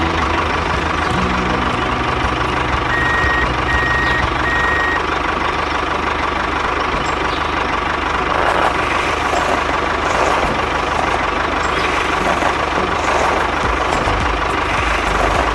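Mini tractor engine running steadily, with three short beeps about three to five seconds in.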